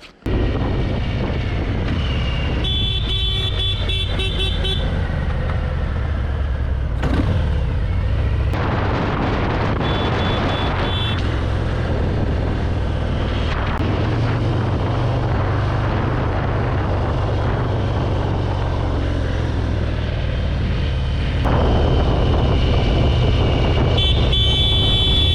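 Road traffic with a steady low rumble of engine and wind noise, and a car horn honking three times: for about two seconds starting three seconds in, briefly around ten seconds, and again near the end.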